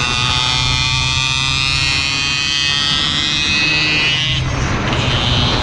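Motorcycle engines of a Yamaha RX King 135cc two-stroke and a Yamaha Vixion racing at high revs. A high-pitched engine whine with many overtones slowly falls in pitch and drops away about four seconds in, over a steady low engine hum.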